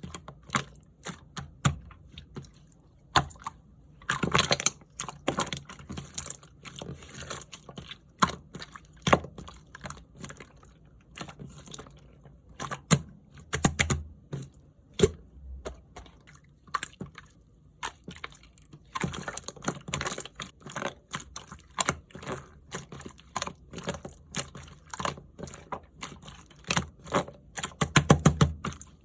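Clear slime being squished and pressed by hand, making rapid irregular sticky clicks and pops, with denser bursts of clicking a few times.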